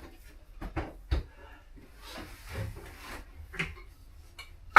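A few knocks and a low thud, then a rubbing, sliding sound lasting about a second and a click: things being handled and set down, as a box is brought to the bench to be opened.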